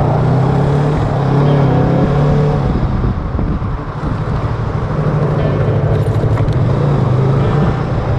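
Yamaha R3's parallel-twin engine running at low, steady revs as the motorcycle rolls slowly; the engine note eases briefly about three seconds in, then picks up again.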